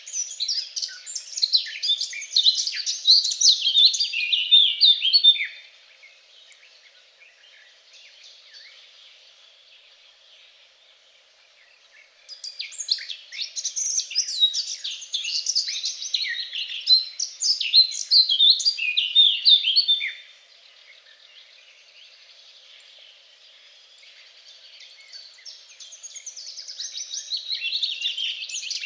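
A songbird singing long phrases of rapid, varied high notes, about three songs of several seconds each with pauses of several seconds between them.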